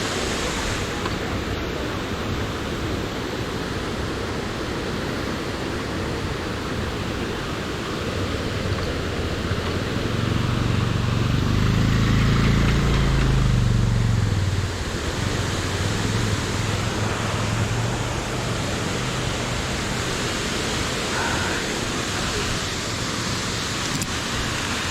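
Steady rushing noise throughout, with a low engine drone that swells up about ten seconds in, drops off sharply a few seconds later and fades away.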